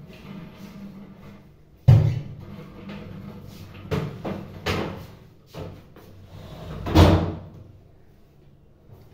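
A series of sudden household knocks and bangs. A sharp bang comes about two seconds in, smaller knocks follow near four and five seconds, and a longer, louder sound comes about seven seconds in.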